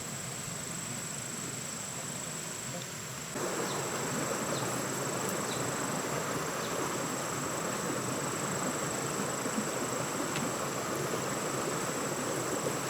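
A steady, high-pitched insect drone, such as crickets or cicadas. About three seconds in, a louder, even rushing noise suddenly joins it.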